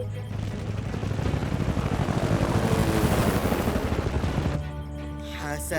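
Cartoon helicopter sound effect: a steady, fast-chopping rotor whir as the helicopter hovers. About four and a half seconds in, sustained musical tones come in over it.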